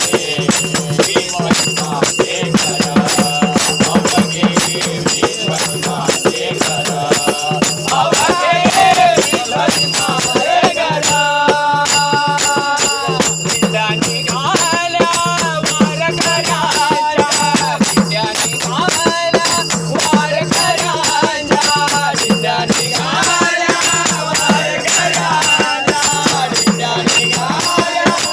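Marathi devotional bhajan in raga Bhairavi: voices singing the melody over steady jingling, rattling percussion.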